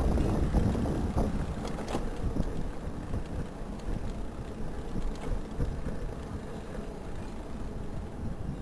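Wind buffeting the microphone over a low rumble while riding a Citi Bike electric bike, louder for the first second or so, with a couple of light knocks about one and two seconds in.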